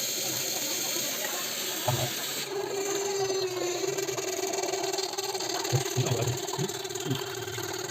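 Water tap running with a rushing hiss; about two and a half seconds in, a steady low hum sets in and holds. The hum is the noisy-tap fault. A few short dull knocks sound underneath.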